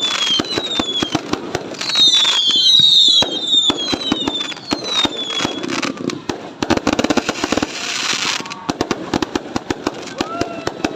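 Fireworks going off in quick succession: many sharp bangs and crackles mixed with whistles that fall in pitch, thickening into a denser burst about seven seconds in.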